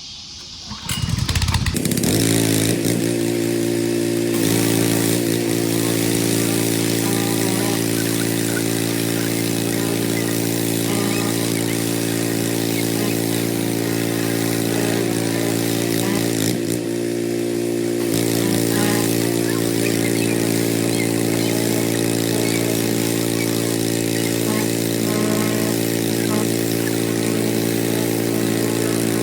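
An engine starts about a second in and settles into a steady idle. Its note shifts briefly past the middle, then it runs evenly again.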